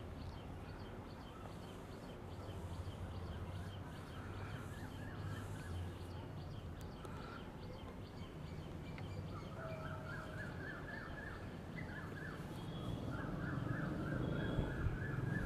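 Faint outdoor ambience with small birds chirping in the background: quick runs of short notes, most noticeable from about ten seconds in. A steady low hum sits underneath.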